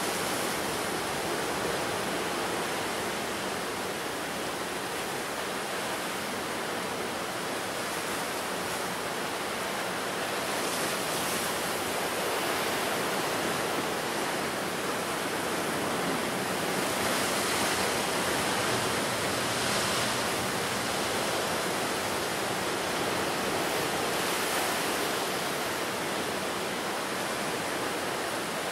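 Ocean surf breaking on the shore: a continuous wash of noise that swells and eases slowly as waves come in.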